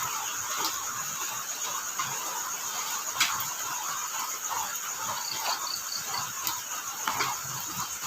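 Steady rain falling, with crickets chirping through it; a short run of quick chirp pulses comes about five seconds in, and a few sharp drop ticks stand out.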